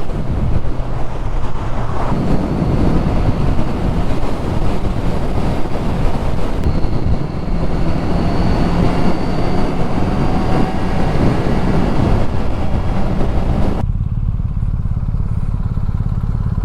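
Kawasaki Z1000SX inline-four engine running under way, under heavy wind and road rush. About 14 seconds in, the wind noise cuts out suddenly, leaving the engine's steady low drone.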